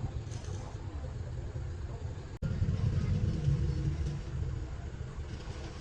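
A tractor engine running steadily with a low rumble, cut off abruptly about two and a half seconds in and coming back louder.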